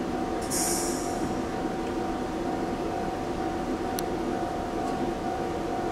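Train running at a station: a steady rumble with a constant whine. A brief high hiss comes about half a second in, and a sharp click about four seconds in.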